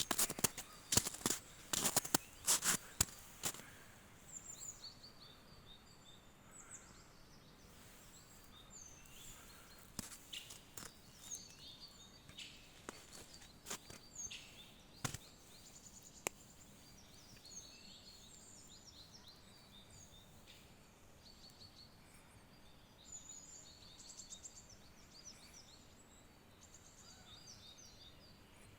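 Several small birds chirping and trilling in a forest, with a run of loud sharp clicks in the first four seconds and a few single clicks later.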